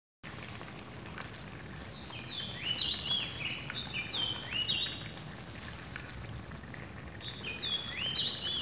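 A bird chirping over and over, a quick series of short high notes, over the steady low hiss of a curry simmering in a pan.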